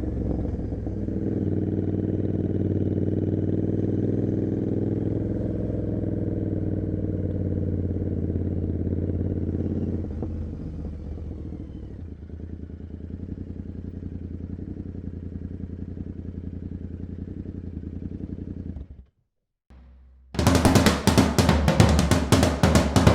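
Royal Enfield Continental GT 650's parallel-twin engine, breathing through an Emgo cafe muffler with no dB killer, running steadily. It drops to a quieter running sound about ten seconds in and cuts off near the end. After a brief silence, drum-heavy music starts.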